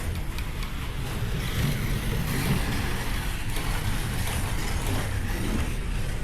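Slot cars running around the track right after the start of a heat: a steady whirr of small electric motors and tyres on the track, with faint clicks.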